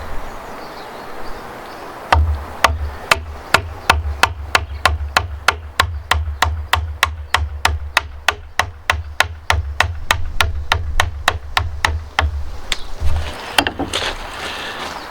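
Mallet striking a chisel in timber in a fast, steady rhythm, about three blows a second, each with a sharp crack and a low thump. The blows start about two seconds in and stop near the end.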